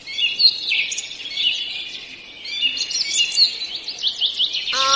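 Birds chirping: many quick, high-pitched chirps in rapid succession, thinning briefly about two seconds in and then picking up again.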